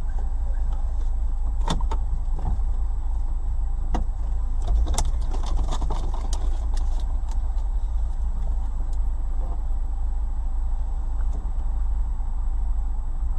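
Car driving with a steady low rumble of engine and road noise, and a few sharp clicks and knocks in the first half.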